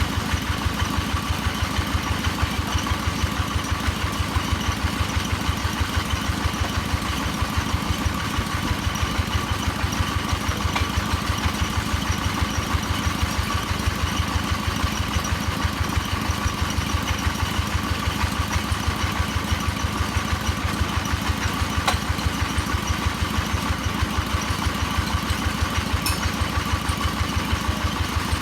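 Engine of a drilling machine running steadily, with an even, regular chugging beat.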